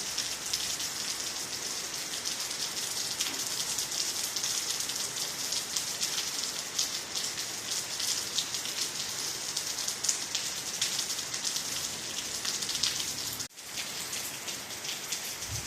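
Steady rain falling: a dense even hiss made up of many small drop patters. It cuts out for an instant about three-quarters of the way through.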